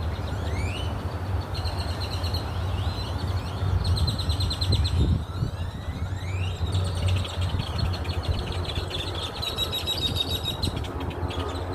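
Small birds chirping: quick rising calls and fast rattling trills, repeated throughout, over a steady low rumble.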